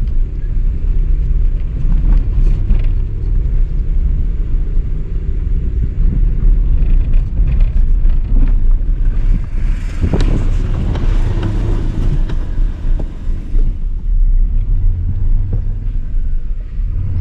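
Car driving slowly, heard from inside the cabin: a steady low rumble, with a rougher, noisier stretch about ten seconds in.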